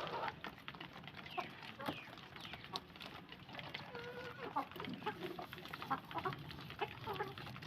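Domestic chickens clucking, short calls coming irregularly, with small clicks and taps among them.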